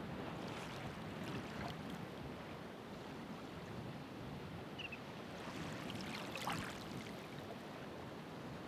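Ocean waves washing onto the shore: a steady wash of surf with a splash of breaking water about a second in and a louder one around six seconds in.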